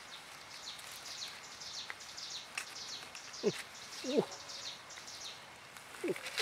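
Small birds chirping and twittering in quick, high, falling notes. Three or four louder, short, low sounds drop in pitch, around the middle and near the end.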